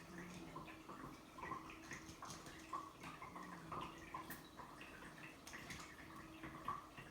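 Faint, scattered light taps and scuffles of kittens playing with a toy, over a low steady hum.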